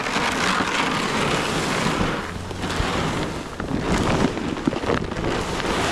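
Wind rushing over the microphone, loud and even, rising and falling in gusts.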